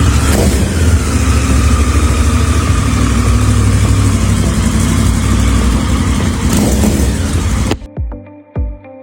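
Motorcycle engine running at high revs through a GPR aftermarket exhaust, loud and held for several seconds, then cutting off abruptly near the end.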